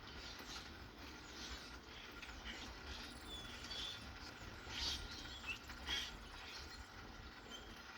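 Birds chirping in short high calls over a steady hiss of light rain, with a few louder sharp chirps or drips about five and six seconds in.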